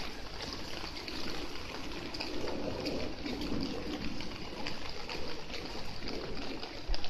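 Steady trickling and splashing of water, with rain falling around a pool.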